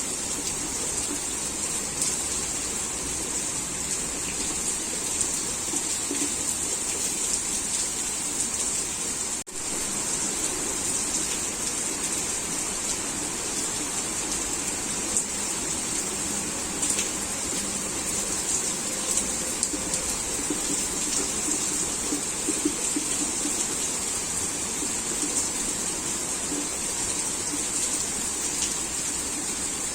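Heavy rain falling in a steady hiss, broken by a brief dropout about a third of the way through.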